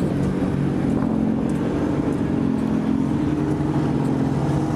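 Car engines idling steadily at a constant pitch, with no revving.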